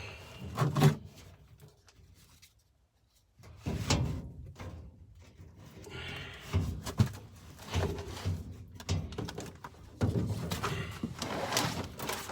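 Irregular knocks, clunks and rustling from hands working and moving things about, with a short silent break about two seconds in.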